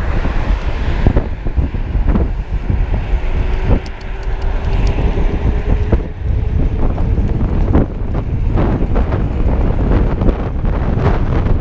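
Wind buffeting the microphone of a rider on a moving electric bike, over a steady low rumble of traffic. A faint whine rises slightly from about three to six seconds in.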